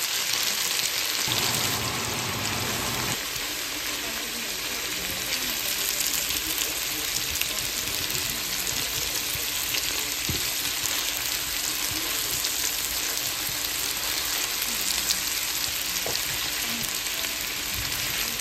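Sliced potatoes and onion rings sizzling steadily in hot oil in a frying pan, with a few soft knocks from tongs turning them.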